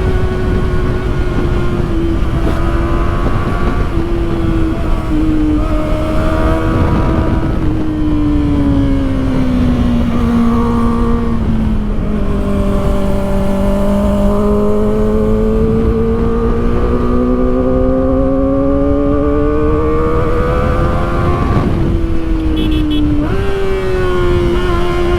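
Kawasaki Ninja ZX-4RR's inline-four engine running at high revs on the move, over steady wind and road noise. The engine note falls slowly over several seconds midway, climbs back, then dips and jumps up quickly near the end.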